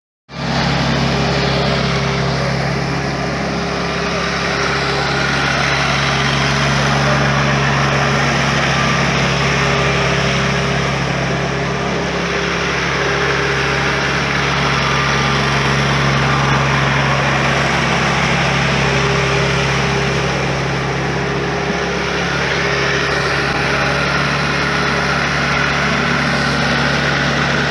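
Sonalika DI-30 Baagban 4WD tractor's diesel engine running steadily at an even speed while puddling a wet paddy field.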